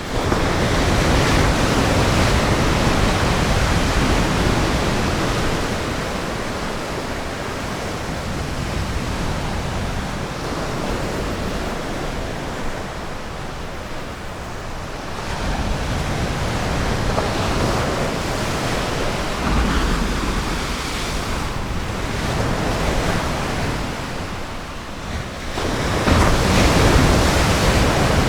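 Ocean surf washing onto a sandy beach: a steady rush of breaking waves that swells louder at the start, again about halfway through, and loudest near the end.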